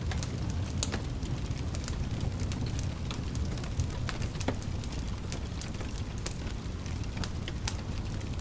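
Wood fire crackling: a steady low rumble of burning with irregular sharp pops and snaps scattered throughout.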